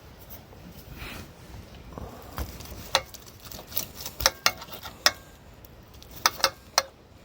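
Metal utensils clicking and clinking against cookware and a plate while food is served out of a cast-iron Dutch oven: a scatter of short sharp clicks, most of them in the second half.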